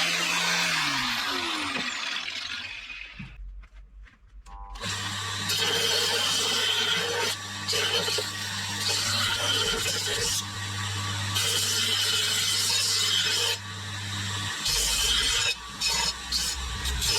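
An electric power tool running down over the first couple of seconds, its pitch falling. After a short pause another run starts about five seconds in, with a steady low hum under noise that rises and falls as the tool works, easing off briefly near fourteen seconds.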